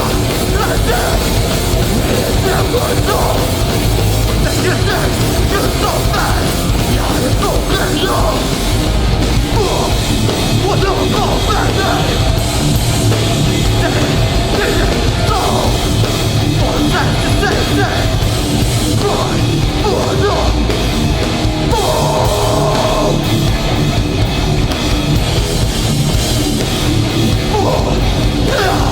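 Hardcore band playing live: loud distorted guitars, bass and drums with shouted vocals.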